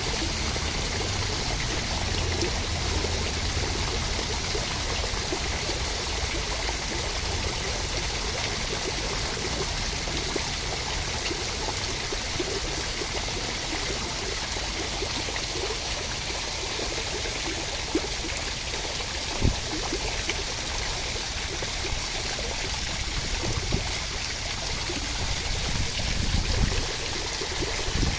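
Steady rain falling, an even hiss of water. One sharper tap stands out about two-thirds of the way through.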